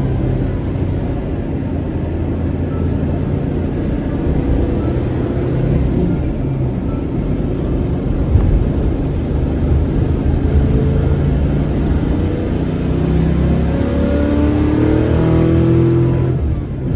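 Car engine running while driving, its pitch rising as it accelerates near the end and then falling away.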